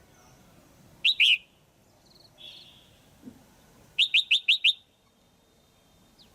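Female red-whiskered bulbul calling in short bursts of quick, sharp chirps: a group of two or three about a second in, then a faster run of five about four seconds in.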